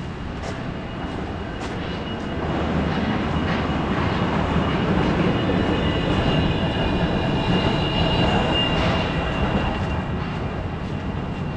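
Wuppertal Schwebebahn suspended train running along its overhead rail: a rumble with a high steady whine that grows louder about two seconds in, stays strong through the middle and eases off near the end.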